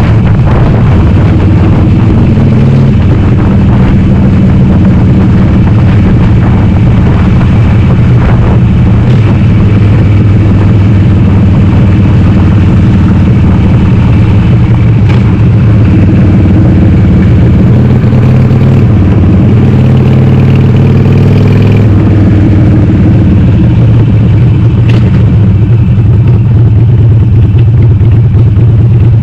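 Harley-Davidson Sportster 883R's air-cooled V-twin, bored out to 1200, running loud through a Cobra Speedster 909 exhaust with the baffles (dB killers) removed. Its pitch climbs steadily for several seconds about two-thirds of the way through, then drops abruptly.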